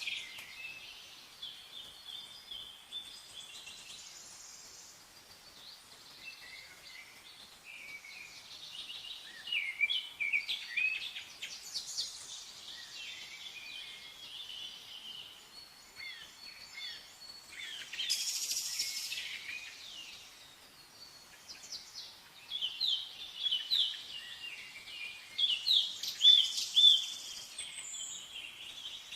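Several songbirds chirping and singing in short trills and rapid runs of notes, with a buzzy, hissing call a little past the middle and the loudest, densest chirping near the end.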